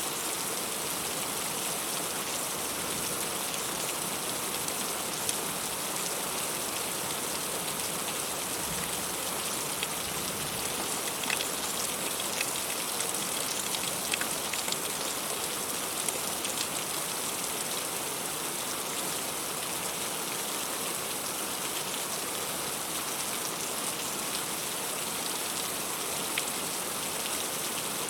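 Heavy rain falling steadily, an even hiss with scattered sharper drop taps that come a little thicker about halfway through.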